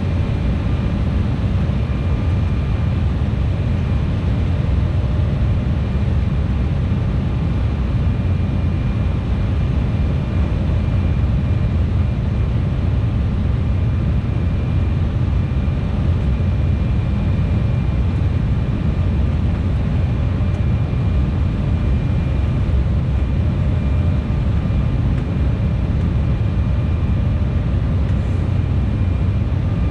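Embraer E175's GE CF34 turbofan engines and airflow heard inside the cabin: a steady deep roar with a faint, even fan whine above it.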